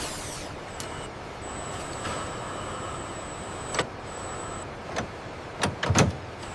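Assembly-line machinery noise: a steady hiss with a thin high whine, broken by several sharp metallic clanks in the second half.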